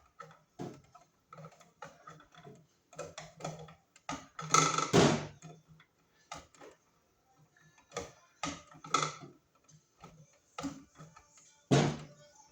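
A plastic wire nut being twisted down tight onto spliced copper wires: irregular short clicks and scrapes, loudest about five seconds in and again near the end.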